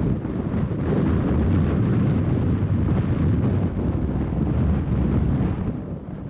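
BNSF grain train rolling across a bridge: a steady low rumble from the cars, with wind buffeting the microphone.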